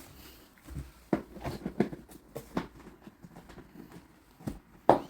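Irregular light knocks and clicks of hard plastic vacuum-cleaner parts being handled and fitted together, with a sharper knock about a second in and another near the end.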